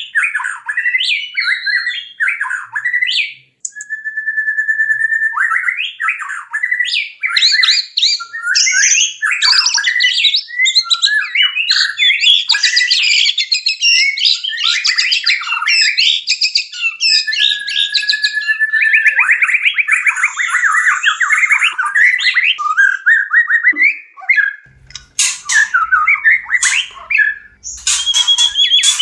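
White-rumped shamas (murai batu) giving their courtship song in breeding condition, singing without pause. The song is a loud, varied run of whistles, rapid trills and harsh notes, with a long fast trill about two-thirds through.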